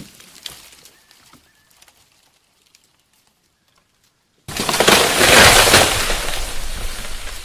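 Faint crackling that fades to near silence, then, about four and a half seconds in, a sudden loud noisy burst that slowly dies away.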